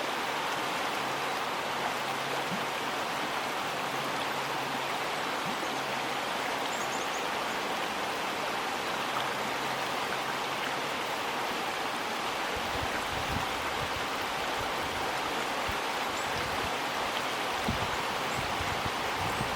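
River water flowing beneath a bridge, a steady even rush. A few short low thumps come in over the last third.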